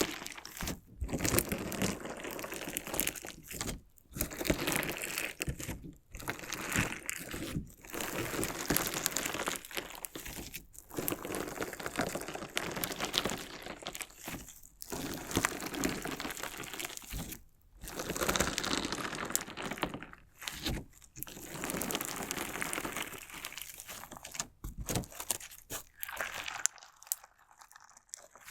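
Crunchy slime mixed with small decorative stones being squeezed and worked by hand, giving a dense crackling, grinding crunch. It comes in stretches of one to a few seconds with short breaks between, and eases off near the end.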